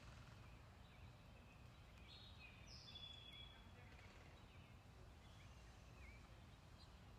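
Faint bird calls: a few short chirps and downward-sliding notes scattered through the middle, over a low steady rumble.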